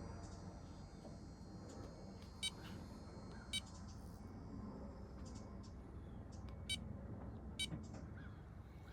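Four short electronic beeps at uneven intervals, the button beeps of a handheld diagnostic meter as its settings are stepped through, over a quiet low background.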